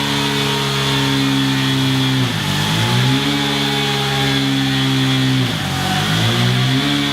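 KTM Duke 390's single-cylinder engine running through a Scorpion Serket Taper exhaust at steady revs. Twice, about two and five and a half seconds in, the note dips sharply and climbs back.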